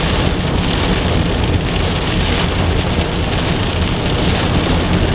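Heavy rain pouring steadily on a moving car, heard from inside the cabin, with the low rumble of the car on the road beneath it.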